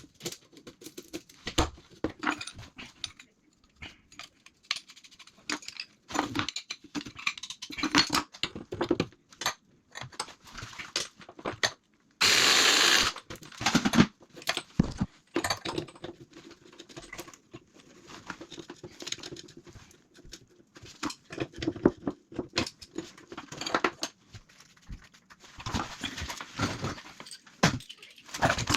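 Scattered clicks, taps and knocks of tools and pipe fittings being handled during plumbing work, with one louder rushing noise lasting about a second near the middle.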